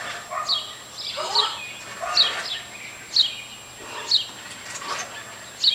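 Baby wild bird chirping over and over, short high chirps that fall in pitch, about one a second.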